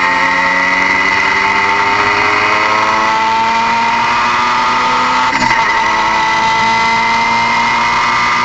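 Car engine running under load, its revs climbing slowly and steadily, with a strong high whine riding over it.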